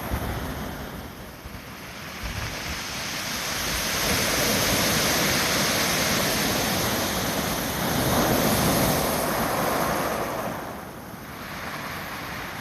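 Heavy Pacific surf stirred up by an approaching typhoon: a wave breaks and washes in, swelling over several seconds and easing off near the end, with wind buffeting the microphone.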